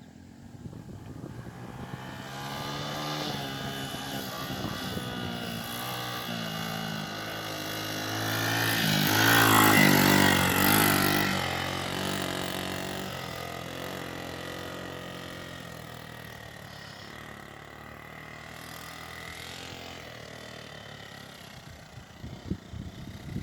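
Motorcycle engine running, getting louder to a peak about ten seconds in and then fading, as if the bike rides up close and then away.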